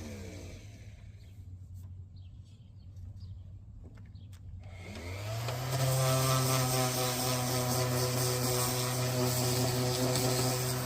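A power tool's motor spins down as it is released and idles low for a few seconds, with a few light clicks. It then spins back up, rising in pitch, and runs steady at full speed.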